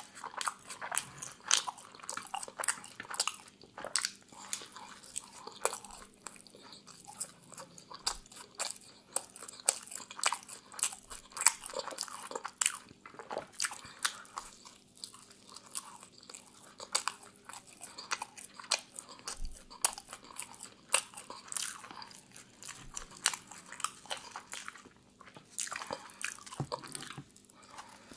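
Close-miked chewing and biting of pizza: crust crunching and wet mouth clicks in a dense, irregular stream of sharp crackles.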